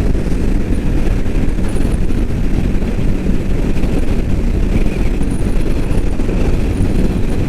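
Steady wind rush on the microphone mixed with the Royal Enfield Meteor 350's single-cylinder engine running hard at highway speed, near the bike's top speed of about 75 mph.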